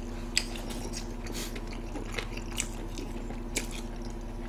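Close-miked eating sounds: chewing and biting into braised pork trotter (jokbal), with scattered wet smacks and small clicks of the mouth.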